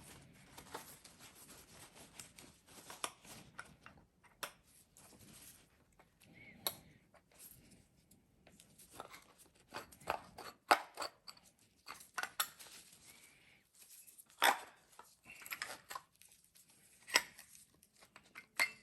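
Hand work cleaning a Denso starter motor part: irregular scraping and rustling with sharp clicks and knocks of metal parts being handled, the loudest knocks in the second half.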